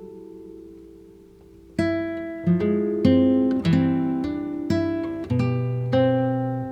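Background music on acoustic guitar: a held chord fading away, then picked notes and strums about every half second from a couple of seconds in.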